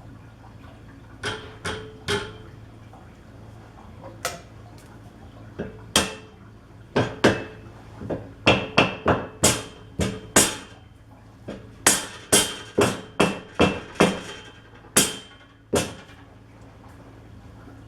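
Hammer tapping on a steel machine part: an irregular series of sharp metal-on-metal strikes, closer together in the middle, each with a brief ring.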